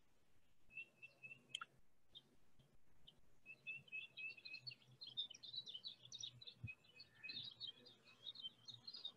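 Faint birdsong: small birds chirping and twittering, sparse at first and becoming a busy, continuous chatter from about three and a half seconds in. A single sharp click sounds about one and a half seconds in.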